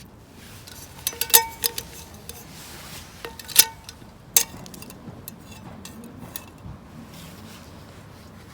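Metal cookware and utensils being handled: a quick cluster of sharp clinks about a second in, then two louder single clinks a little later, each with a short ring.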